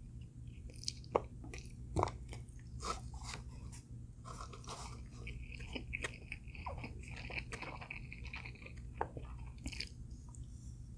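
A person chewing and crunching crispy food close to the microphone, with irregular sharp crunches. The strongest crunches come about one and two seconds in.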